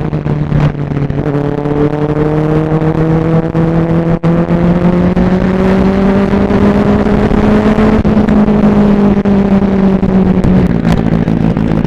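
Superbike engine running loud and steady, its pitch climbing slowly for several seconds, then dropping about ten and a half seconds in as the revs come off.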